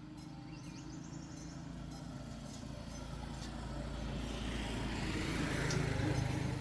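A motor vehicle engine running, growing steadily louder and loudest near the end.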